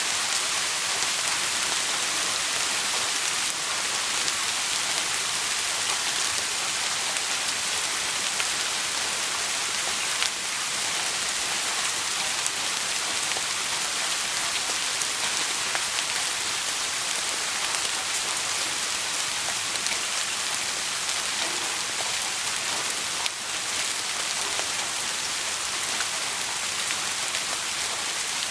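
Steady rain falling, a dense even hiss with a few faint clicks.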